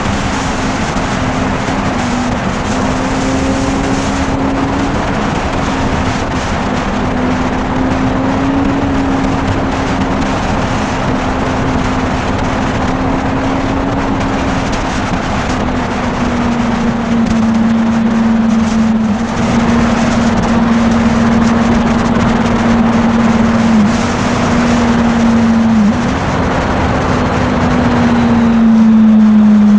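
Motorcycle riding at a steady speed: the engine holds a fairly even note that sags slightly near the end, under continuous wind and road noise.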